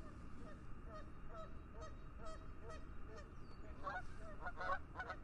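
Geese honking: many short calls overlapping in quick succession, growing louder and denser near the end.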